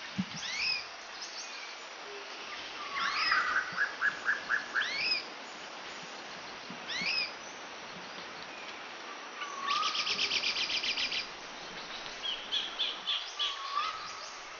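Birds calling: repeated rising whistled notes, a quick run of repeated notes about three seconds in, a fast rapid series about ten seconds in, and clusters of chirps near the end.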